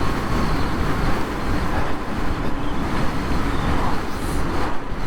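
Wind noise rushing over the helmet and microphone while riding the Harley-Davidson LiveWire electric motorcycle at speed: a loud, steady rush with no engine sound under it.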